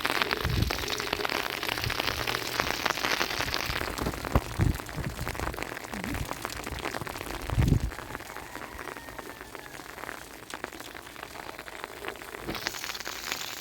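Rain falling on a surface, a dense hiss of many small drops, heavier in the first few seconds and again near the end. A few dull low thumps sound through it.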